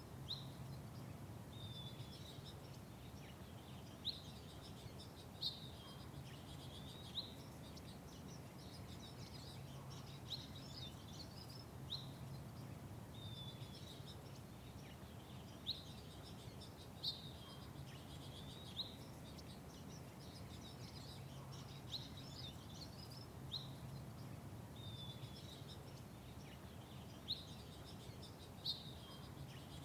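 Small birds chirping: short, sharp chirps every second or two, some of them falling notes, over a steady low background hum.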